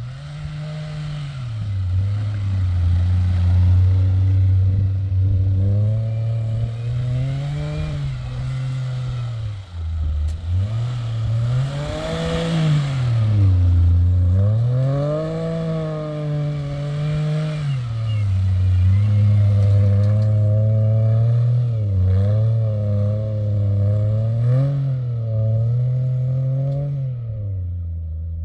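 Dacia Logan's engine revving up and easing off again and again as the car is driven through snow, its note rising and falling every few seconds over a rough scraping and clattering noise.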